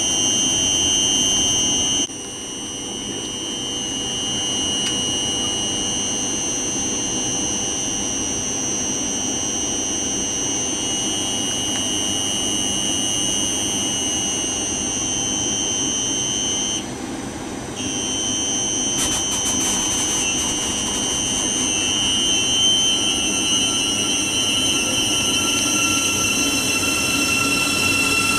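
Electric train's steady high-pitched whine over a low rumble, cutting out for about a second past the middle. Near the end more tones join and it grows louder.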